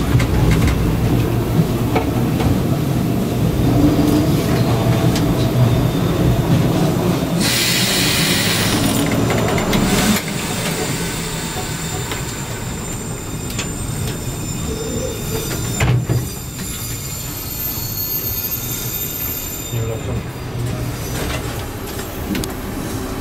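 Passenger train coach running over the rails, heard from inside by the door: a steady rumble, with a high hiss of wheel noise for about two seconds before it drops to a quieter run about ten seconds in.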